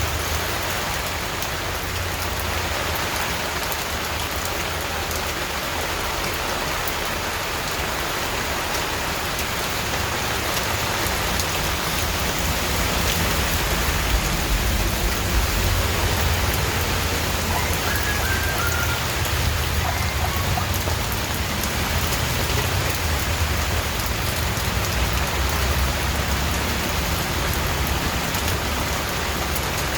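Steady rain falling and pattering on surfaces, a dense even hiss with a low rumble underneath. It swells slightly about halfway through.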